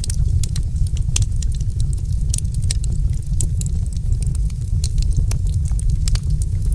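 Wood fire in a fireplace crackling, with irregular sharp pops and snaps, several a second, over a steady low rumble of the flames.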